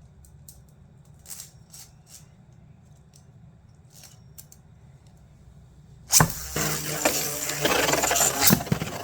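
A few faint plastic clicks, then about six seconds in a sudden loud start of plastic Beyblade tops spinning and clattering together in a plastic stadium, with sharp knocks as they collide.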